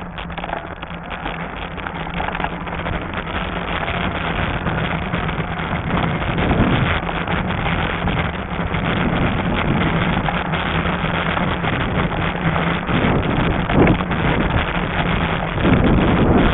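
Wind rushing over the camera microphone on a moving Lectric XP fat-tire e-bike, with a steady low hum under it. Near the end the hum drops out and the wind noise gets louder.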